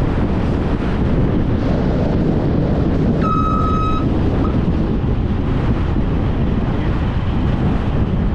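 High wind buffeting the GoPro's wind-guarded microphone, a steady low rumble. A single short beep sounds about three seconds in.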